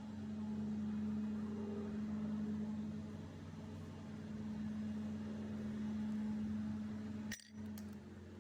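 50cc GY6 scooter engine running at a steady speed, a smooth even hum. Near the end a sharp click and a brief drop cut into it.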